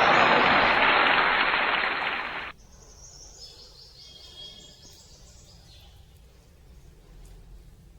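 A loud, even noise that stops abruptly about two and a half seconds in, followed by faint chirping and chatter from pet budgerigars.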